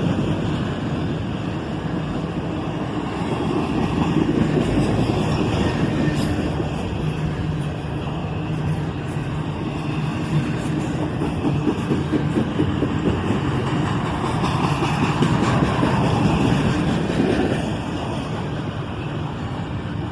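Double-stack intermodal freight train rolling slowly past as it slows into a siding: a steady rumble of steel wheels on rail with a low hum and scattered clicks, easing off near the end.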